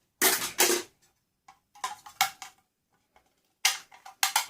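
Scrap metal parts from a stripped microwave clanking as they are handled and set down: two loud clanks in the first second, lighter taps with a brief metallic ring, then a quick run of clatters near the end.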